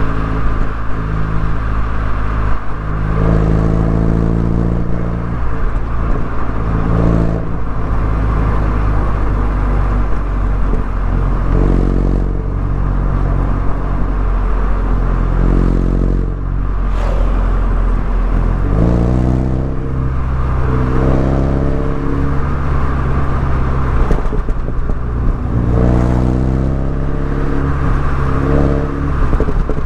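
Mini Cooper S engine and exhaust under way, the engine note climbing and easing off several times as the driver works the throttle through the bends, over a steady rumble of road noise.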